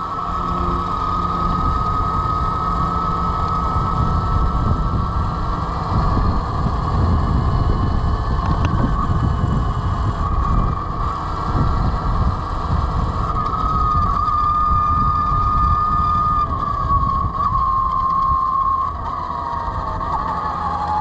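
Velimotors VMX12-F electric motorcycle riding along, its electric motor giving a steady high whine over a rush of wind and road noise. The whine drops in pitch in steps through the last few seconds as the bike slows.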